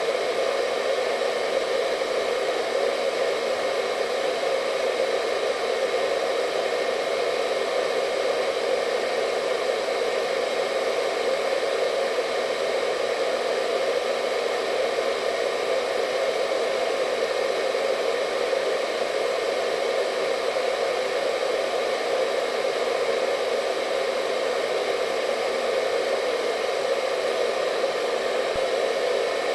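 Hair dryer running continuously: a steady blowing whir with a faint motor hum, unchanging throughout.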